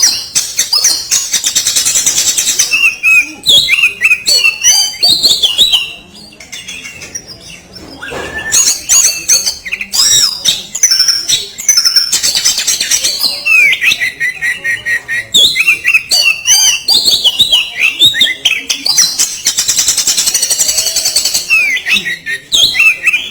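Oriental magpie-robin (kacer) singing a fast, varied run of harsh, scratchy notes and sharp whistles, the rough 'kasaran' song material. It eases into a quieter stretch about six seconds in, then picks up again.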